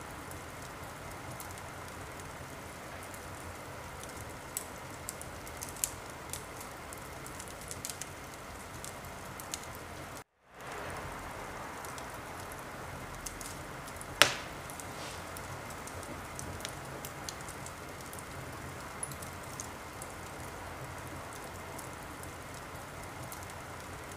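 Wood fire burning in a fireplace: a steady hiss with frequent sharp crackles and pops, and one loud pop about fourteen seconds in. The sound cuts out completely for a moment about ten seconds in and swells back.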